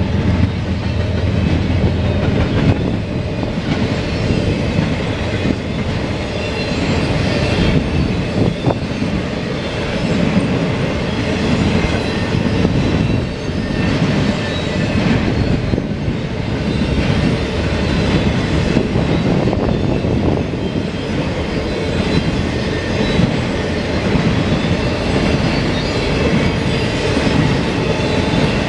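Freight cars of an intermodal train, double-stack container cars and trailer cars, rolling past at close range: a steady, loud rumble of steel wheels on the rails with scattered clicks and knocks.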